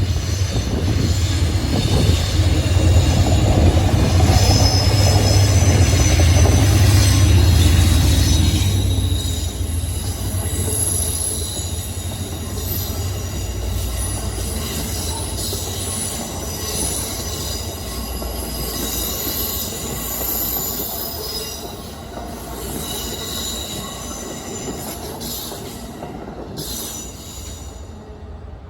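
A train passing on rails, its wheels squealing in thin high tones over a low rumble. The rumble is loudest for the first eight seconds or so, then falls away while the squeals go on and slowly fade.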